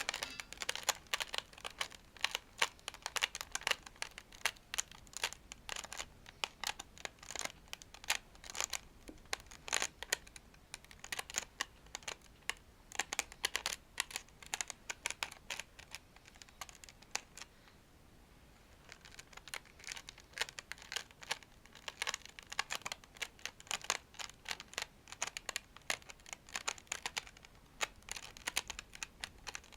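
A toy plate being scratched and brushed close to the microphone: quick, crisp, clicky strokes in dense runs, with a pause of a couple of seconds about two-thirds of the way through before the scratching resumes.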